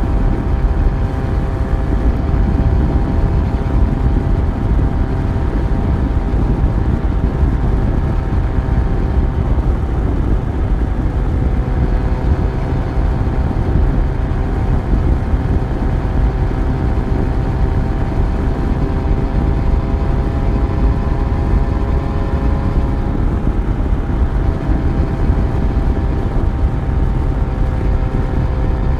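Yamaha FZ1's inline-four engine running at steady cruising revs on the move, over a heavy low rumble. The pitch eases down slightly around the middle and again about three-quarters of the way through.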